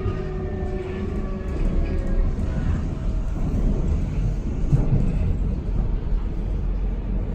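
Hamburg U-Bahn train running, its electric motor whine sliding down in pitch over the first few seconds over a steady low rumble of wheels on track, with a couple of heavier bumps about five seconds in.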